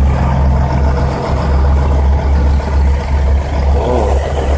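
Steady low rumble of idling diesel truck engines.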